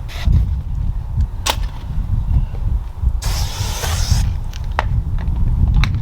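A one-second hiss of sealant sprayed from a trigger bottle onto a car panel about three seconds in, with a couple of sharp clicks, over a steady low rumble of wind on the microphone.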